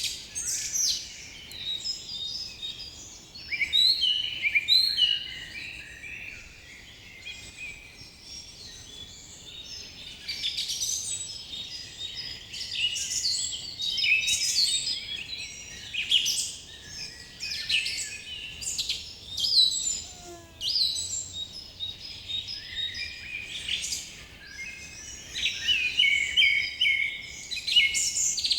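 A chorus of forest birds, several calling and singing at once in overlapping short chirps and trills. A single lower whistle slides down in pitch about two-thirds of the way through.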